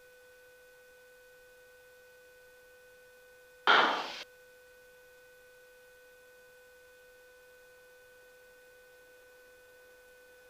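Faint, steady electrical hum of several pure tones in a light aircraft's intercom audio, with one short loud burst of noise about four seconds in.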